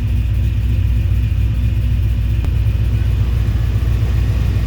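Built LQ9 6.0-litre V8 with a Brian Tooley cam, long-tube headers and Magnaflow stainless exhaust, idling steadily with a low, even note.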